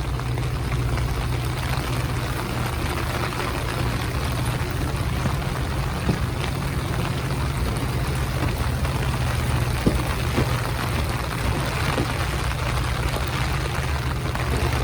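Diesel train locomotive running steadily, a low drone under an even rushing hiss with a few faint clicks.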